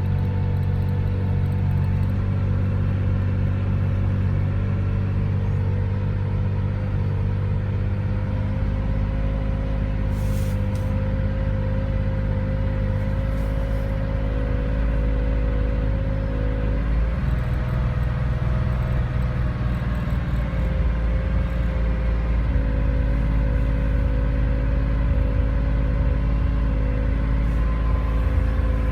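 Air-cooled 2.2-litre flat-six engine of a 1970 Porsche 911T, fitted with aluminium cylinders, running steadily at an even speed. Its pitch shifts slightly a few times.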